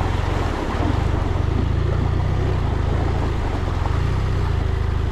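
BMW F 800 GS parallel-twin engine running steadily as the motorcycle rides along, with an even rush of noise over it.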